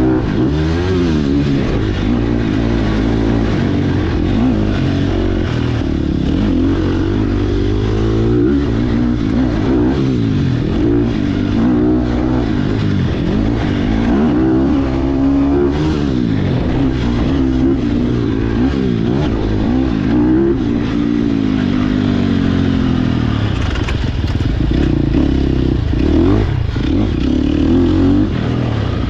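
Sherco SEF300's single-cylinder four-stroke engine being ridden hard, its pitch rising and falling again and again as the throttle opens and closes and the gears change, with some clatter under it.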